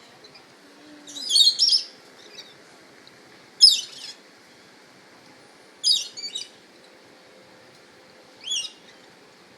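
Birds giving short, high-pitched chirping calls in four brief bursts, about two and a half seconds apart.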